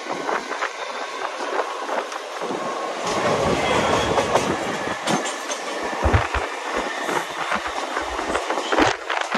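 Mumbai suburban electric local train running at speed, its steel wheels clattering over rail joints with a continuous rushing rumble. It gets louder from about three seconds in as a train passes close by.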